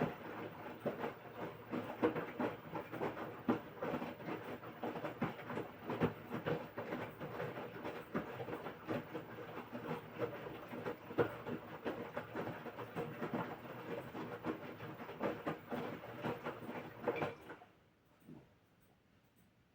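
LG 6.5 kg washing machine tumbling the wash load in its drum: laundry and water sloshing with a busy clatter of small knocks. The drum stops suddenly near the end, leaving near silence as the wash cycle pauses between turns.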